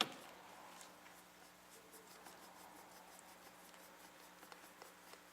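A sharp click, then faint scratchy rubbing with small scattered ticks: a screw being turned into a motherboard standoff, tightened only to snug.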